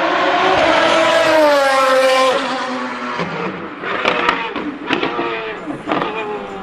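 Lamborghini Murciélago R-SV GT1 race car's V12 revving up, then falling in pitch as it comes off the throttle, followed by several sharp exhaust cracks on the overrun.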